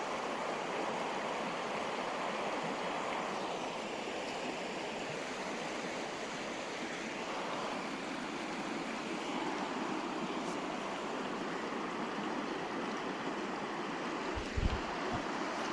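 River water flowing in a steady, even rush. A brief low thump comes near the end.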